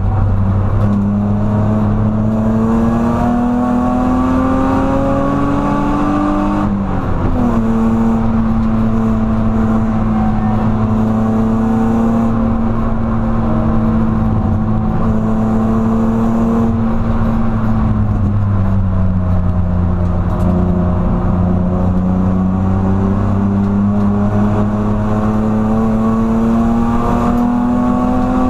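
BMW E46 330Ci's 3.0-litre straight-six pulling hard on track. Its note climbs in pitch under acceleration and drops sharply at an upshift about seven seconds in. It then holds fairly level, falls away about two-thirds of the way through, and climbs again under power near the end, over a steady low drone.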